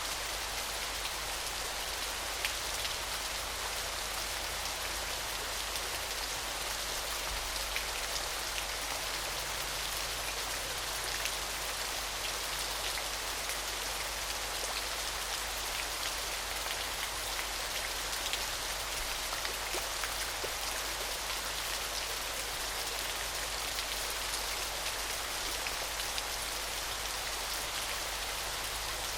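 Small waterfall splashing: a steady, even hiss of falling water, mostly high in pitch, with a fine patter of tiny droplet splashes.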